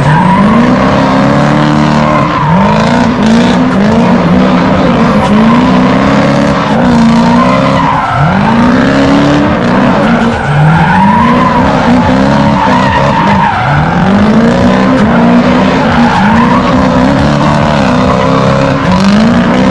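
A car engine revving up again and again, its pitch rising and levelling off every second or two, over continuous tyre screeching as the car spins its tyres.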